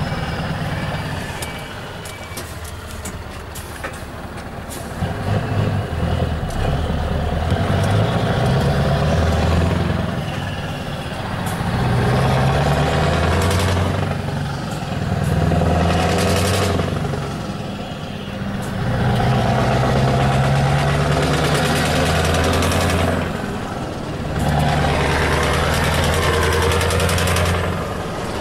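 Scania R-series truck engine with an open exhaust, pulling hard through several gears: the engine note climbs, drops back at each gear change and climbs again. Short hissing bursts of air come at some of the shifts.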